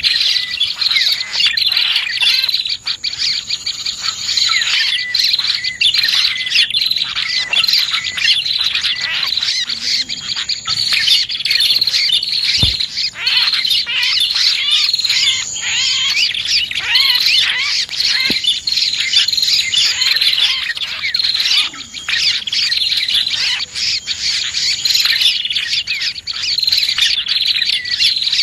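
Dense, unbroken chirping and twittering of prenjak (prinia) and other small birds, many quick overlapping calls together, from a bird-lure (pikat) recording. A single short thump about halfway through.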